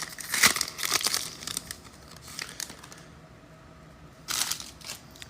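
A foil trading-card pack being torn open and its wrapper crinkled, with crackly rustling for about two seconds and another short burst of crinkling near the end.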